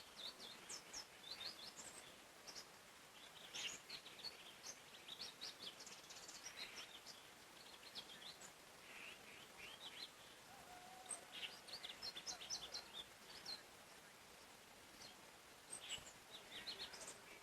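Quiet forest birdsong: several songbirds chirping and trilling in short, high calls scattered throughout, over a faint steady hiss of background noise.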